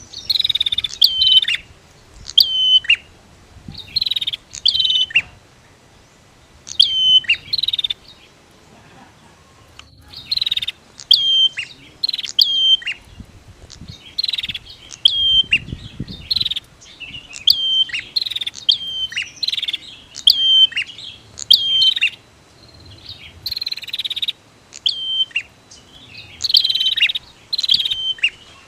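Prinias (prenjak) singing and calling: sharp, high, clicky notes with quick downward sweeps, given in short clusters every second or two, with one pause about a third of the way in.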